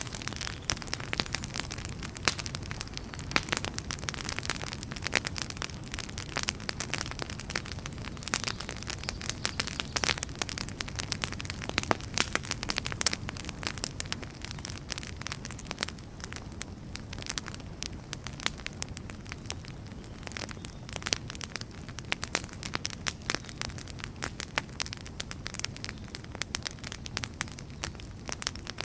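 Burning firewood crackling: many sharp, irregular pops and snaps over a low, steady rumble of flames.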